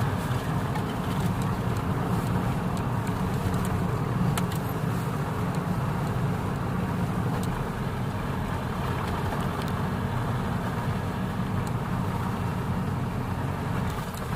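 A vehicle's engine and road noise while driving: a steady low drone with a few faint clicks and rattles.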